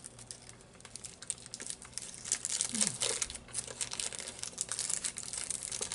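Close-up chewing of a fruit chew sweet, a little hard at first: a dense run of quick, wet, clicking mouth sounds that grows busier after about two seconds. A short low hum near the middle.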